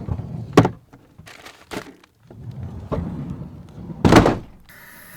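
A few knocks and thuds of things being handled, the loudest about four seconds in, with a short ring after it.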